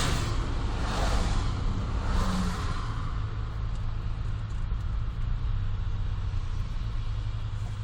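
Honda Life JB5's 660 cc three-cylinder engine running through a Rosso Modelo GT-8 aftermarket muffler while driving, heard from inside the cabin with a window open: a steady low exhaust hum under road and wind rush. The rush fades over the first few seconds, leaving the low hum.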